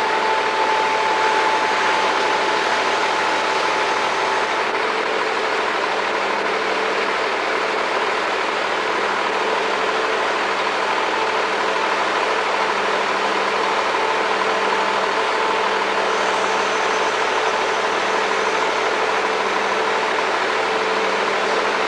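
A machine running steadily: an unchanging drone with a constant hum in it.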